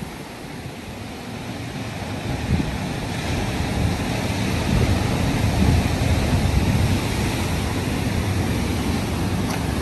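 Ocean surf breaking and washing against the shore, swelling in the first half and then holding steady, with wind buffeting the microphone in low rumbles.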